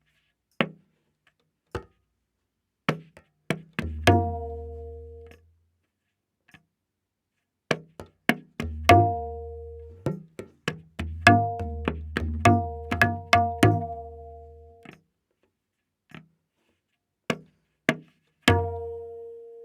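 Tabla playing a slow vilambit ektaal theka: sparse strokes with long gaps. The dayan rings out at its pitch of A#, and at several points deep, sustained bass strokes from the bayan swell under it.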